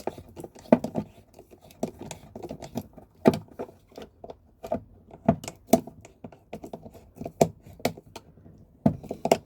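Screwdriver tightening the terminal screw on a circuit breaker, heard as a string of irregular small clicks and taps.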